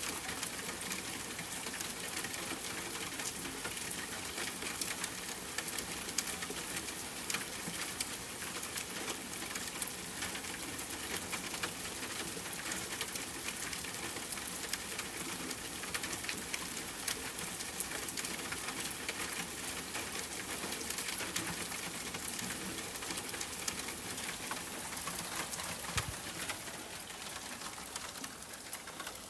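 Steady rain falling and pattering on a surface, with many individual drops ticking, easing slightly near the end. A bird coos now and then behind it.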